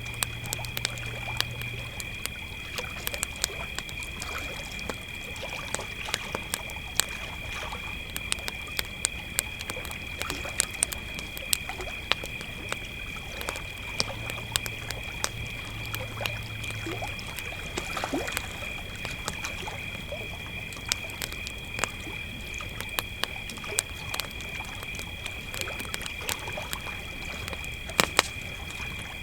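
Crickets chirping in a steady chorus, holding two high pitches without a break, over the irregular crackle and sharp pops of a campfire.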